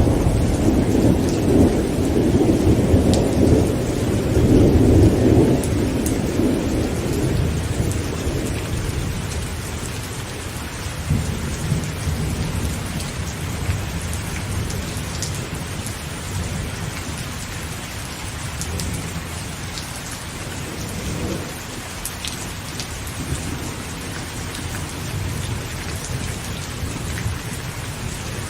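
Heavy rain falling on a tent, with scattered sharp drop ticks. A long rumble of thunder fades out over the first eight seconds or so, and fainter low rumbles come back a few times later.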